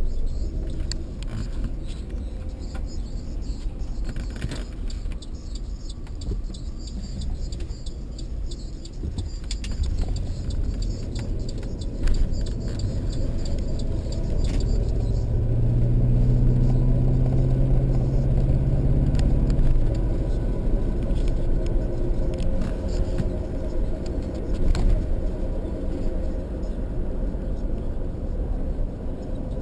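Car driving, heard from inside the cabin: steady low engine and road rumble, with the engine note swelling for a few seconds past the middle and a single knock near the middle.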